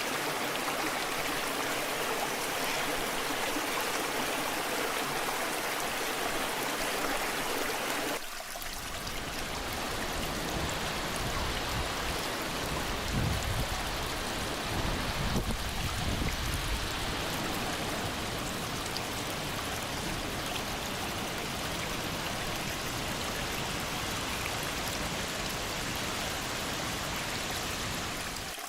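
Waterfall water rushing steadily. About eight seconds in the sound changes abruptly to a fuller, deeper rush, with a few low rumbles soon after.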